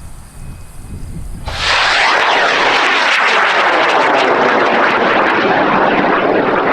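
High-power rocket motor, an Aerotech White Lightning, igniting suddenly about a second and a half in, then burning with a loud, steady, crackling rush as the rocket lifts off the pad.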